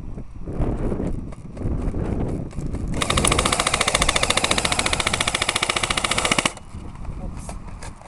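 Airsoft rifle firing one long full-auto burst of rapid, evenly spaced clicks, lasting about three and a half seconds and starting about three seconds in. Before it there is irregular scuffing noise.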